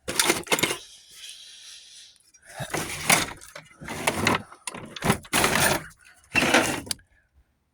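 Rummaging: hard objects being moved, knocked and rattled about in several separate short bursts of clattering while someone searches for a can of lubricant.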